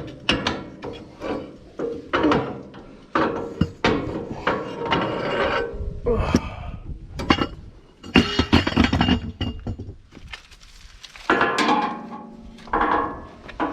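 Irregular metal clanks, knocks and clinks of steel tractor parts being handled, as the PTO shaft is offered up to the tractor and the drawbar is worked on.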